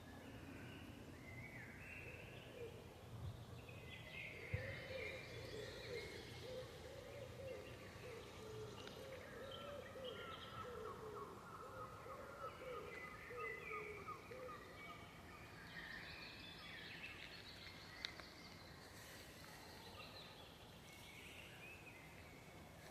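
Several birds singing and calling at once in a forest, faintly, with a steady low background rumble. Two sharp clicks stand out, about four and a half seconds in and again near the end.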